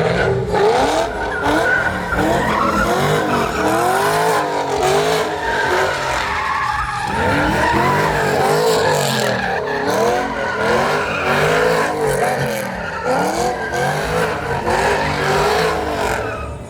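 A truck's engine revving hard, up and down in pitch about twice a second, as its spinning tyres squeal in a burnout.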